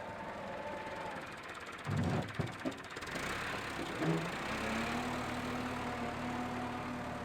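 A motor running with a steady hum. Loud knocks come about two seconds in and again near four seconds, after which it settles to a lower, steady pitch.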